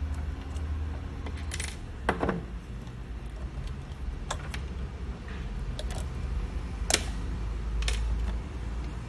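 Small metal drivetrain parts of an RC car clicking and clinking as they are handled during a transmission cup and shaft replacement: about eight sharp clicks scattered irregularly, over a steady low hum.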